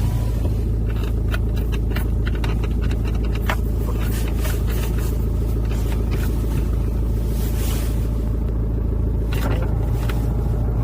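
2004 Hyundai Santa Fe's engine running at a steady low rumble, with scattered light clicks and knocks over it.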